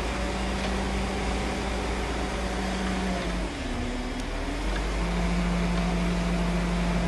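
Diesel engine of a heavy earthmoving machine running steadily; its pitch dips about three and a half seconds in and comes back up, a little louder, about a second and a half later.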